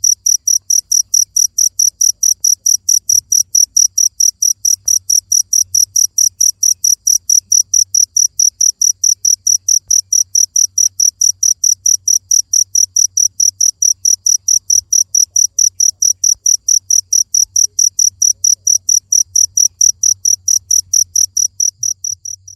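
A cricket chirping steadily: high-pitched, evenly spaced chirps at about four a second.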